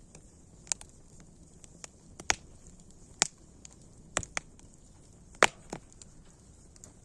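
Wood fire crackling: a string of sharp pops and snaps, the loudest about five and a half seconds in, over a low steady rush of burning.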